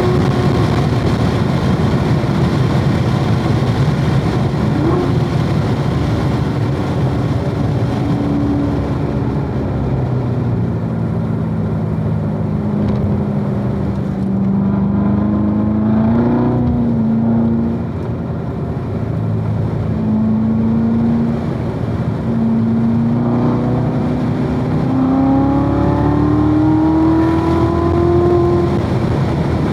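2016 Corvette Z06's supercharged 6.2-litre V8 at speed on a race track. The revs fall slowly for several seconds, with a couple of brief throttle blips about halfway, then climb steadily again under acceleration toward the end.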